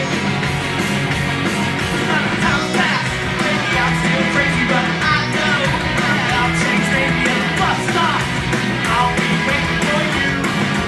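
Rock band playing live, with a fast, punk-style steady drum beat under dense, loud guitar-band music.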